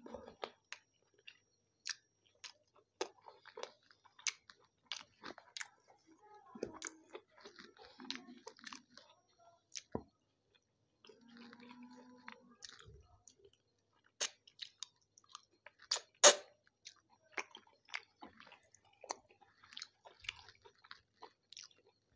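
Close-up chewing of spicy chicken: wet mouth clicks and smacks, with a couple of short low hums. About 16 seconds in comes one much louder sharp smack.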